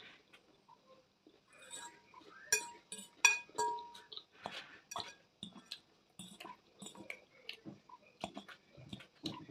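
Cutlery clinking and scraping against a dish of salad, with many small clicks. The loudest clinks, about three seconds in, ring briefly.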